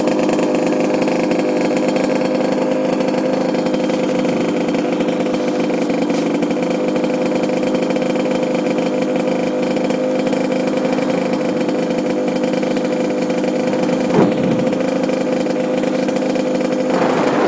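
Suzuki RG80 two-stroke single-cylinder engine, fitted in a Suzuki SMX with a 21 mm Dellorto carburettor on an open intake, idling steadily, with a brief change in its note about fourteen seconds in.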